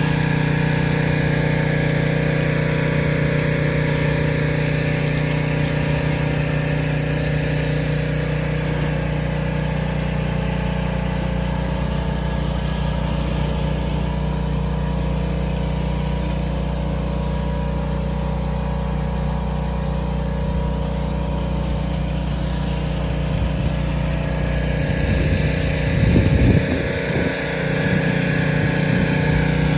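Pressure washer's small engine running steadily under load, with the hiss of water spraying from the surface cleaner onto concrete; a brief louder, rougher patch comes near the end.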